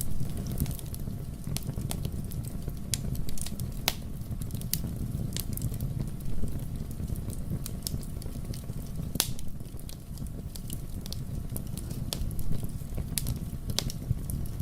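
Fire burning in a fireplace, crackling with irregular sharp pops and snaps over a steady low rumble of the flames.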